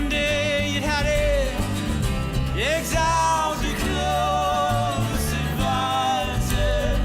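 Live band playing an instrumental passage: a violin holding long notes with vibrato and sliding steeply up into them, over guitar and a low accompaniment.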